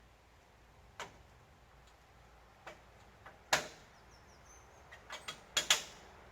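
A few sharp knocks and clicks at irregular spacing. The loudest comes about three and a half seconds in, and a quick cluster of four follows near the end.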